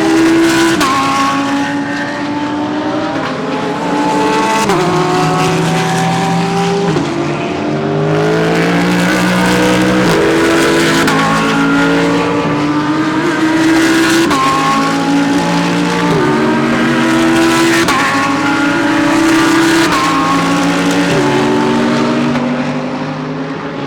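Several GT3 race cars at full throttle, their engine notes overlapping as they accelerate past, each climbing in pitch and dropping sharply at every upshift, about every two to three seconds.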